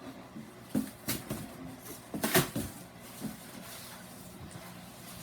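A run of irregular knocks and thumps, the loudest about two and a half seconds in, over a faint steady low hum.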